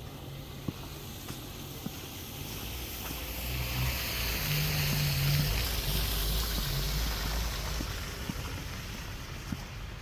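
A motor vehicle passes by: its engine and tyre hiss build up, peak about halfway through, and fade away.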